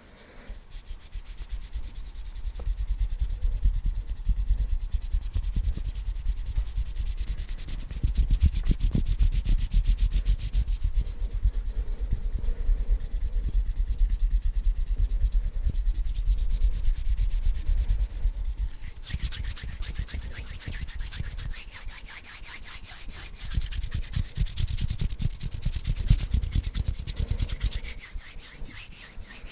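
Bare hands rubbing together fast, a dense run of quick dry swishing strokes. About 19 seconds in the rubbing turns lighter and thinner.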